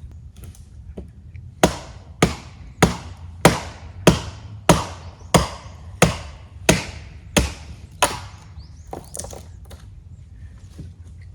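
Steady chopping into wood: about eleven sharp blows, roughly one every 0.6 seconds, starting about a second and a half in, then a few lighter knocks.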